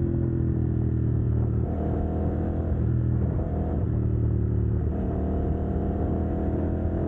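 Decatted CFMoto 800NK parallel-twin engine pulling while riding. Its note eases down at first, then dips and picks up again several times as the throttle or gear changes.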